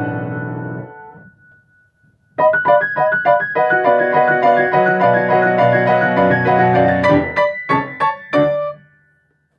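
Piano played four hands: a chord dies away in the first second, then after a short pause the playing resumes with many notes together. Near the end come a few separate chords before the last note fades.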